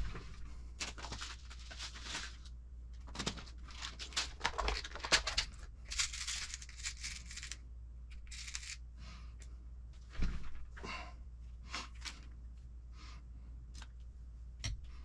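Plastic packaging rustling and being torn open in irregular bursts, with a few small sharp clicks of parts being handled.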